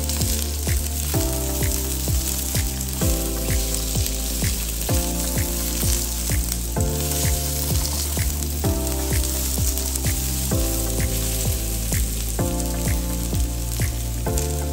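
Sliced onion and garlic sizzling as they sauté in oil in a wok, turned now and then with a spatula. Background music with a steady beat and chords changing every couple of seconds plays over it.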